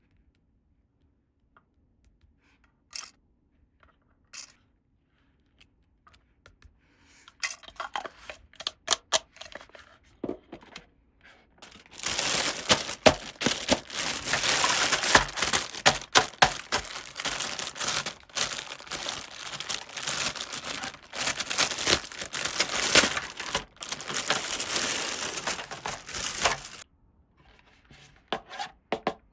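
Toy packaging, most likely thin plastic, being torn open and crinkled. A few light clicks and taps come first, then a long stretch of dense tearing and crinkling that stops shortly before the end.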